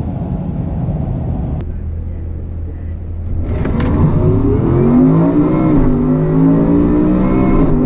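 Supercharged V8 running with a steady low hum, then going to full throttle about three seconds in: the engine note climbs in pitch and grows louder, dips briefly at a gear change and climbs again, as the vehicle launches down the drag strip.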